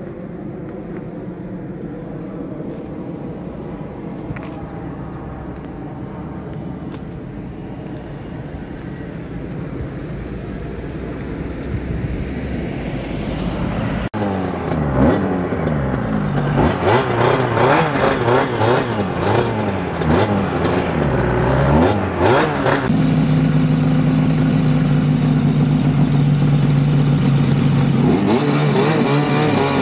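Suzuki RG500 Gamma's two-stroke square-four engine ticking over at a steady idle, growing slowly louder. After a sudden cut it revs up and drops back again and again as the bike accelerates through the gears, then holds a steady higher note for several seconds before the revs fall near the end.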